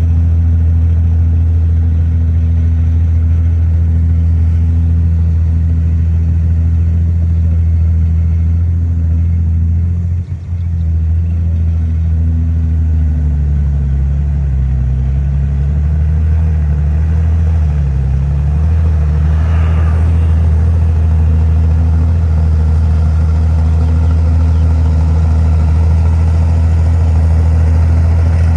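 Heavy diesel engine of earthmoving machinery running steadily. About ten seconds in the sound briefly dips, then the engine's pitch wavers up and down for several seconds before settling.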